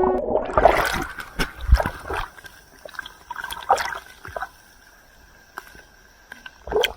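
Water splashing and sloshing, loudest in the first two seconds, then fading to scattered small splashes and trickles, with one more short splash just before the end.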